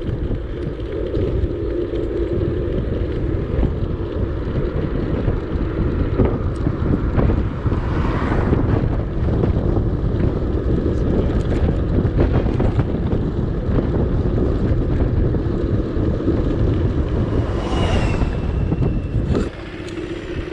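Strong wind buffeting the microphone while cycling: a loud, continuous low rumble.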